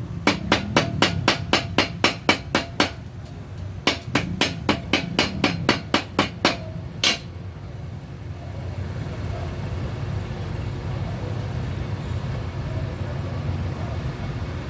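Metal-on-metal hammer blows, a hammer shaping the metal of a handmade jet muffler. The sharp, ringing strikes come about four a second in two runs with a short pause between them, the last blow about seven seconds in. After that only a steady low hum remains.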